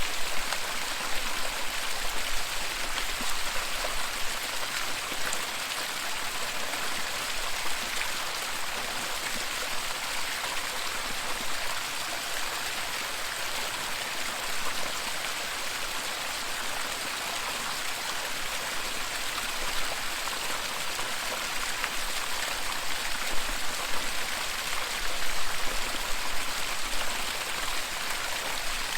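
Waterfall: falling water splashing in a steady rush, with small irregular spatters.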